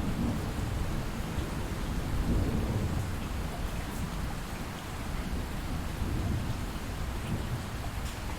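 Steady light rain with distant thunder rumbling low underneath, the rumble swelling a couple of seconds in and then easing off.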